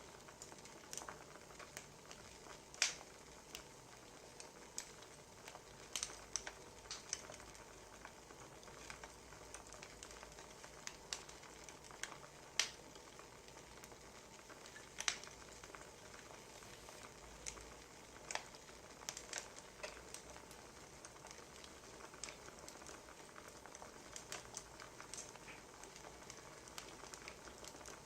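Wood fire crackling: a soft steady hiss with irregular sharp pops and snaps, a few of them louder than the rest.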